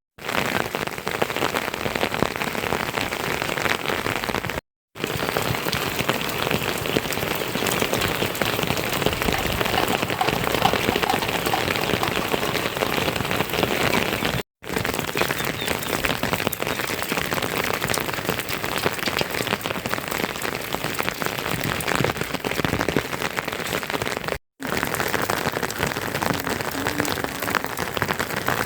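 Steady rain falling, a dense patter of drops. The sound cuts out for an instant three times, about ten seconds apart.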